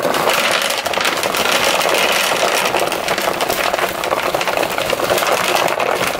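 Dry cat food kibble being poured from a bag into a dish, a steady dense rattle of pellets.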